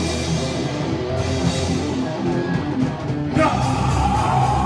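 Heavy metal band playing live: distorted electric guitars, bass and drum kit at the start of a song. About three and a half seconds in, a sustained higher guitar tone comes in over the band.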